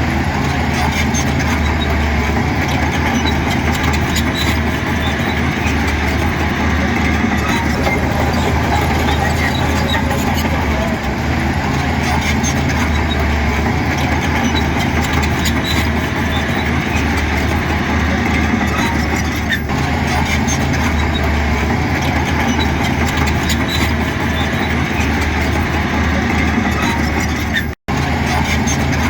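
Heavy diesel earthmoving machinery running steadily, its low engine note swelling and easing every few seconds; the sound cuts out for an instant near the end.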